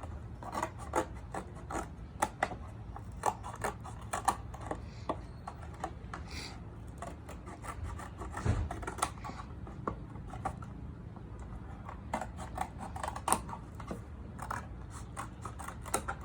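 Scissors snipping and scraping through a milk carton as window openings are cut in its sides: a run of irregular sharp snips and crinkles over a low steady hum.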